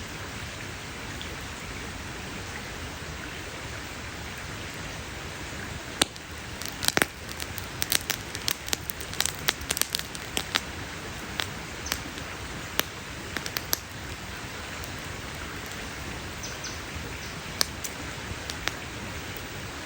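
Campfire of burning wood crackling over a steady hiss, with a dense run of sharp pops and snaps starting about six seconds in that thins out after about fourteen seconds, then only a few scattered pops.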